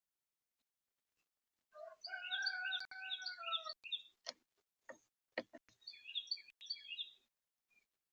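Small birds at a feeder chirping in quick series of short notes, starting after about two seconds and lasting about five seconds, with a steady lower tone under the first half. Several sharp taps are mixed in.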